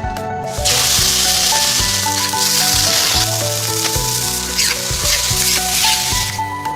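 Food sizzling in hot oil, the hiss starting about half a second in and cutting off shortly before the end, over background music.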